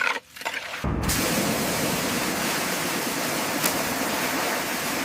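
A steady rushing hiss of high-pressure spray starts abruptly about a second in and holds level, with a few short scraping knocks just before it.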